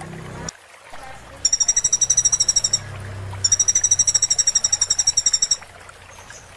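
A sunbird ('kolibri') gives high, rapid, evenly pulsed trills, about ten or more notes a second. The first runs just over a second, starting about a second and a half in, and a longer one follows for about two seconds.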